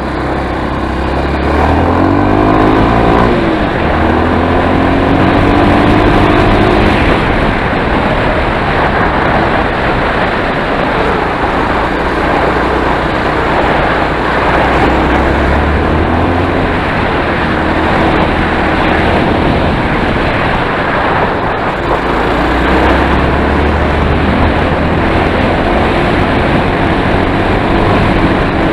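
Enduro motorcycle engine running under way, its pitch rising as it accelerates about two to three seconds in and shifting up and down later, with a steady rushing noise over it.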